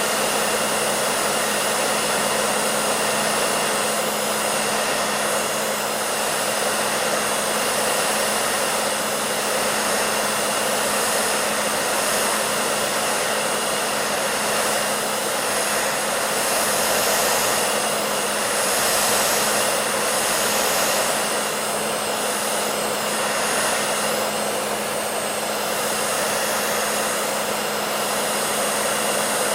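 Electric hair dryer running steadily: an even rushing of air with a constant motor hum underneath, used as continuous white noise.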